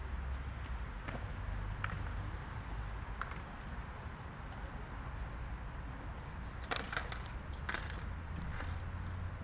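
Outdoor city street ambience: a steady low rumble with scattered short clicks and taps, a few of them close together about seven seconds in.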